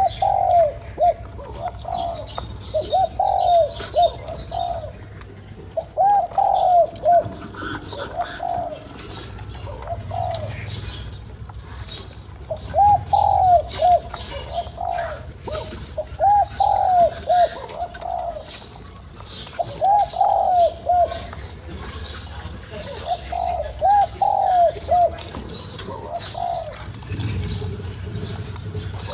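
Spotted dove cooing: phrases of several rounded coos, repeated about every three to four seconds, with faint high chirps of small birds behind.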